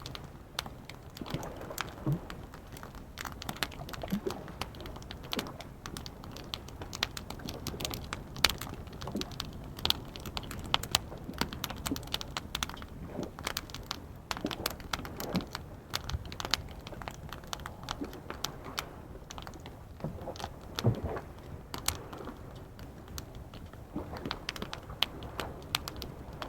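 Wood campfire crackling with many irregular sharp pops and snaps over a steady low rumble.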